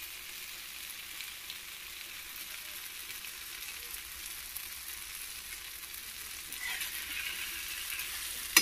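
Spiced brinjal (eggplant) bharit frying in oil in a pan, a steady gentle sizzle, with a steel spatula stirring it; the stirring grows a little louder near the end.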